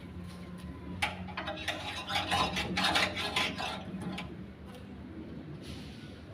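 Metal cookware clattering and rattling for about three seconds, starting about a second in, over a steady low hum.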